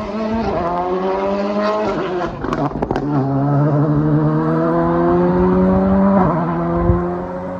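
Rally car engine accelerating hard, its pitch climbing through the gears. There is an upshift about two seconds in, marked by a few sharp cracks, and another near the end.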